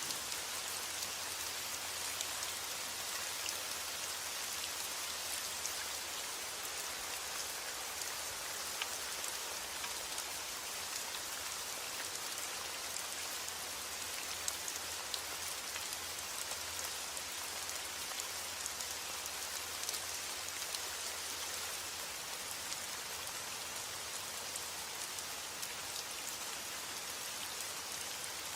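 Steady heavy rain, with dense fine drop patter and scattered small sharp drop ticks; no thunder.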